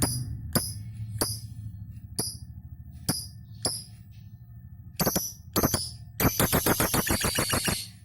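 Lovebird giving sharp, high chirps at irregular intervals of under a second, then breaking into a rapid chattering run, about ten notes a second, near the end: the bird's 'ngekek' chatter.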